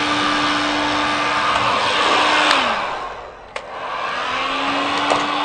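Heat gun blowing hot air onto the gearbox housing, warming it so the bearings will fit: a steady fan rush with a hum. About halfway through, its motor winds down and stops. After a click it spins back up and runs steadily again.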